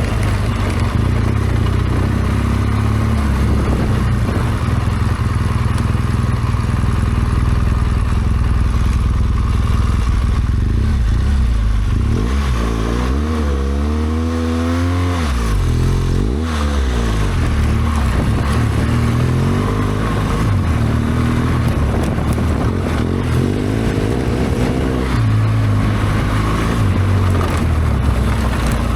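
BMW R1200GS Adventure's boxer-twin engine running under way, its revs rising and falling a few times around the middle as the throttle is worked, over a steady rushing noise.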